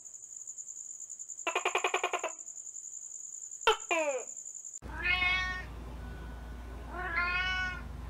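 A rapid pulsed buzz under a steady high whine, broken by a click and a falling swoop; then, from about five seconds in, a domestic cat meows twice, each meow rising and then falling in pitch.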